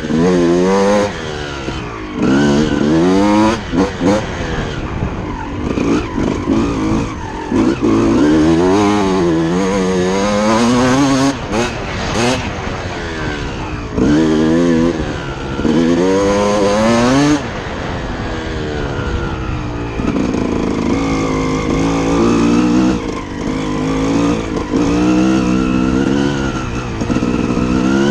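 2006 Suzuki RM250's single-cylinder two-stroke engine being ridden on a motocross track, its pitch rising and falling over and over as the throttle is worked through the gears. A few brief drops in loudness come as it is shut off between pulls.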